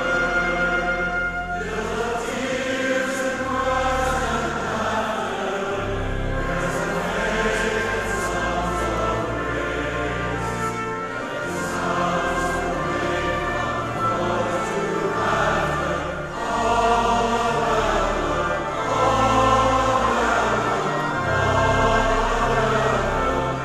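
A choir singing a sacred piece in a church service, over instrumental accompaniment with sustained low notes.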